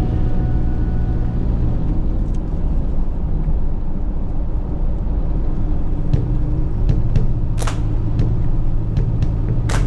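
Steady low rumble of a moving vehicle on the road, with a few sharp clicks, the loudest about three-quarters through and another near the end.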